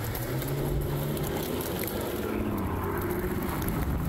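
Mercedes-AMG S65 coupe's twin-turbo V12 pulling away and accelerating, its engine note climbing in steps.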